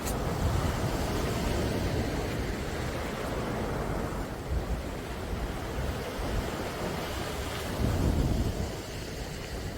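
Calm sea waves washing in and drawing back in a steady hiss, swelling about a second in and again near the end, with wind rumbling on the microphone.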